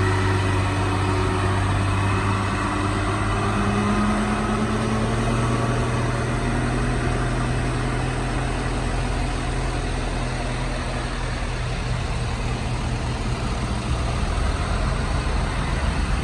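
Heavy diesel truck engine labouring slowly up a steep grade, a steady low drone whose pitch rises a little a few seconds in and then holds.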